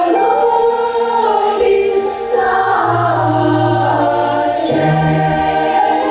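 Children's choir singing with a string orchestra: held chords over moving bass notes.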